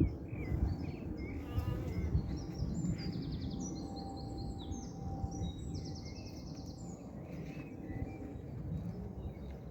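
Songbirds singing and chirping, with several quick high trills in the middle, over a steady low rumble.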